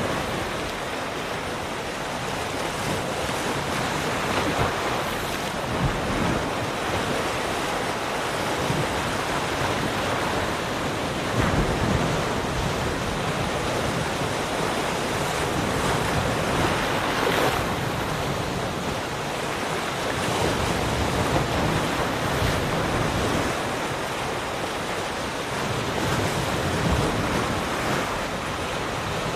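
Ocean waves breaking and washing on a shore, a continuous surf with gentle swells every few seconds, one stronger wave about two thirds of the way through.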